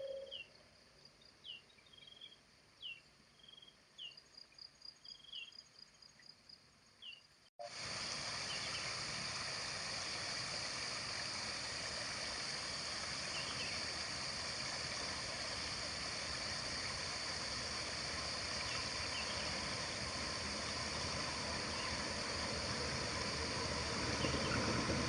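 Small birds chirping in short repeated calls over a faint, pulsing insect-like trill. After an abrupt cut, a steady rushing noise takes over and slowly builds in loudness.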